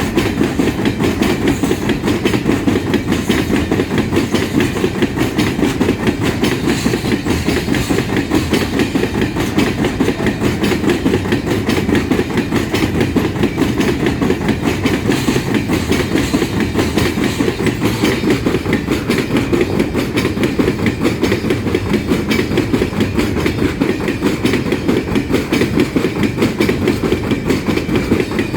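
Empty iron-ore wagons of a freight train rolling past, their wheels clattering steadily and continuously over the rails.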